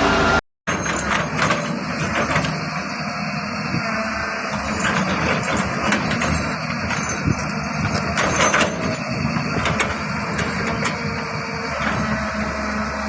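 Road-construction machinery running, with scattered knocks and clattering over a steady engine noise, after a brief dropout about half a second in.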